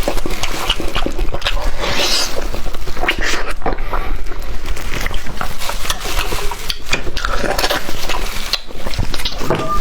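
A person chewing and gnawing on meat close to the microphone: continuous wet smacking, sucking and clicking of the mouth.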